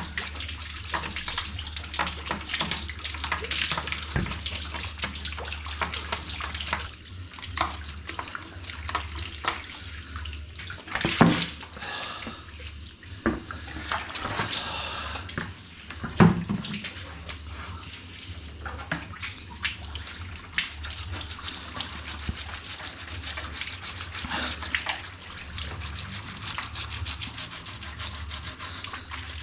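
Tap water running and splashing as washing-machine parts are rinsed and scrubbed by hand, with many small clicks and two louder knocks about eleven seconds in and again about five seconds later.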